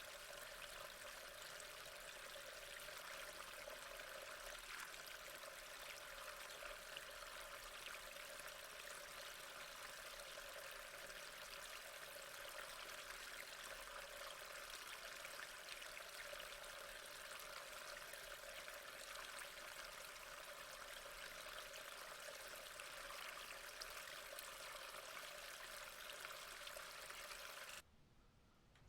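Steady rain falling, faint and even, cut off abruptly about a second before the end.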